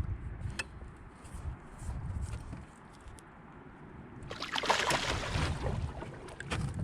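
A big bowfin thrashing at the surface beside a small boat, with a loud burst of splashing about four seconds in, over a low rumble and scattered knocks.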